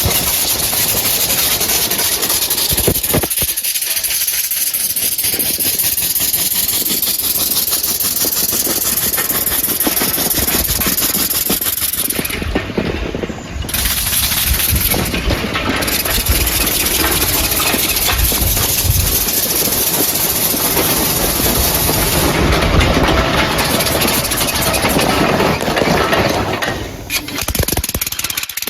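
Homemade compressed-air engine running fast, its exhaust puffs coming as a rapid rattle over a steady hiss of escaping air. The hiss drops briefly about halfway through and again near the end.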